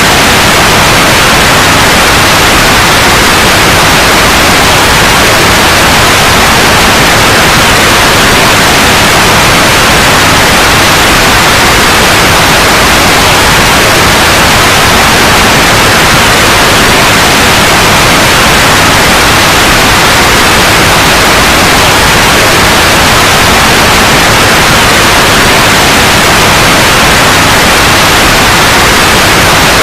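Steady, loud white noise, an even hiss that does not change.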